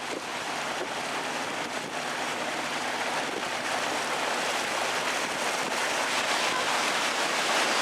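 Steady rushing and splashing of water along the hull of a moving canal tour boat, growing slightly louder toward the end.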